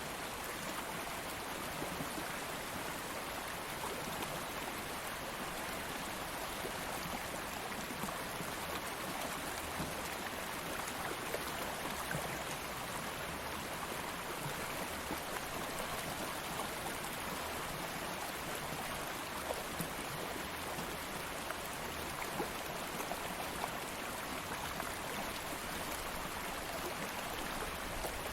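Stream of water flowing steadily over stones, a continuous rush with small splashes and gurgles flickering through it.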